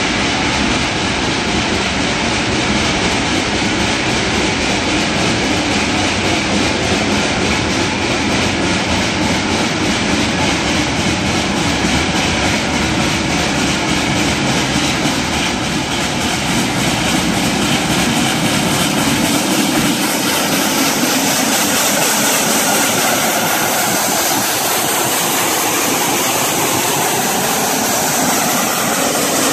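Open-air wooden passenger cars rolling past close by, steel wheels clicking and rattling steadily over the rail joints. Near the end the pushing locomotive, Pacific Coast Shay #2, a geared steam engine, draws alongside.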